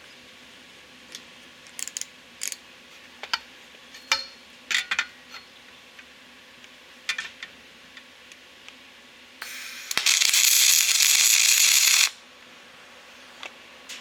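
Scattered metallic clinks and knocks of tools or parts being handled, then a loud steady hiss that lasts about two and a half seconds and cuts off suddenly.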